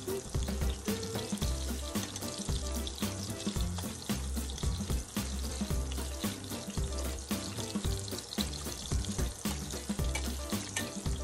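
Battered shrimp frying in hot oil in a stainless-steel pan, a steady hiss, under background music with a steady beat and heavy bass.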